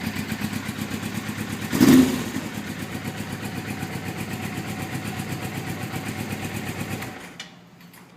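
2008 Suzuki GS500F's 500cc parallel-twin idling through an aftermarket Jardine exhaust, with one quick throttle blip about two seconds in. The engine is shut off about seven seconds in.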